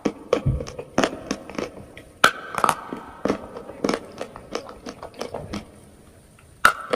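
Someone biting and chewing pieces of chalk close to the microphone: a string of sharp, irregular crunches, with a single loud crack near the end.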